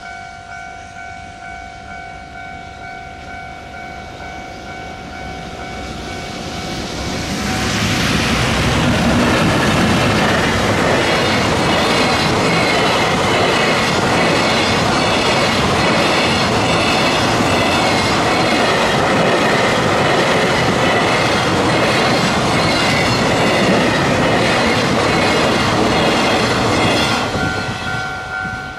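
Electric-hauled freight train passing close by: it swells quickly about seven seconds in, then about twenty seconds of loud wheel clatter over the rail joints as the wagons roll past, dropping away near the end.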